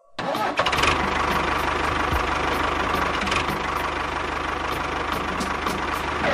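Motor running steadily with a fast, even knocking beat. It starts abruptly just after the opening.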